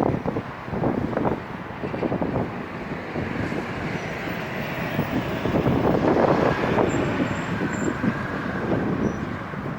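Stormy wind gusting, rising and falling in irregular surges and buffeting the microphone, over a steady wash of urban noise. The gusts are loudest about six seconds in.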